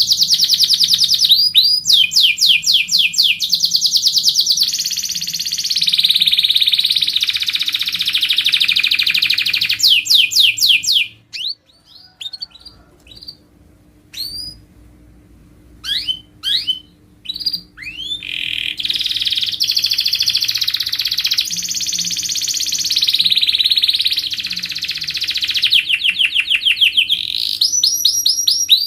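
Domestic canary singing: long phrases of fast repeated high notes and rolling trills. It breaks off about eleven seconds in, leaving a few scattered chirps, and takes up the full song again around eighteen seconds in.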